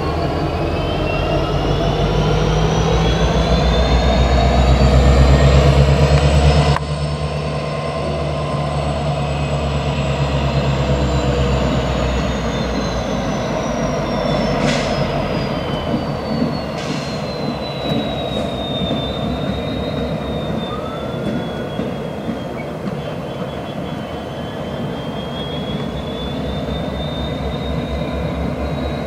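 Norfolk Southern freight train passing: the diesel locomotive's heavy rumble builds, then drops off sharply about seven seconds in, and the cars roll by with a high wheel squeal that rises and falls in pitch.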